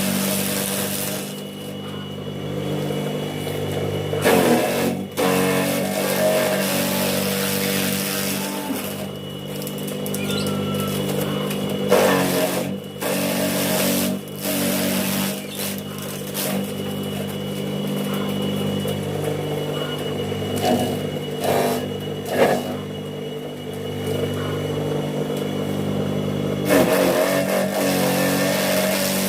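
Homemade grass chopper driven by a water-pump motor, running with a steady hum, with short louder rough bursts every few seconds as grass is fed into the blades and chopped.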